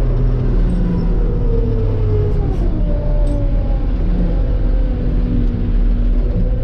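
Claas Dominator 85 combine harvester running steadily while harvesting wheat, a loud drone of engine and threshing machinery whose pitch sags slightly about two seconds in.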